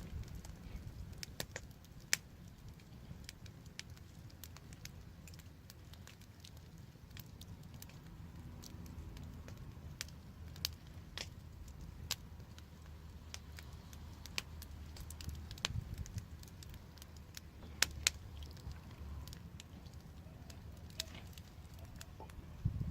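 Wood fire burning, with irregular sharp crackles and pops, a few louder ones, over a low steady rumble.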